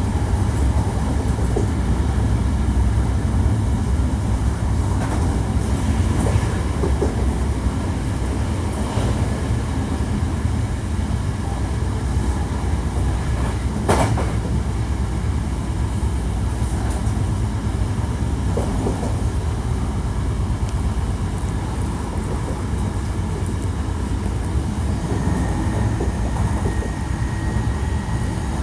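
Hankyu 1300 series electric train running steadily on the rails, a continuous low rumble with faint steady tones. A single sharp click about halfway through, and a higher steady tone comes in near the end.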